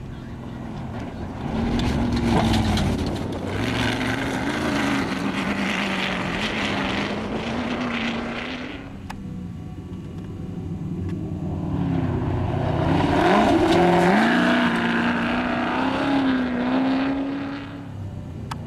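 Two off-road desert race vehicles go by one after the other, each engine running hard with its note wavering up and down with the throttle. The first is loudest about two to eight seconds in, the second about twelve to seventeen seconds in.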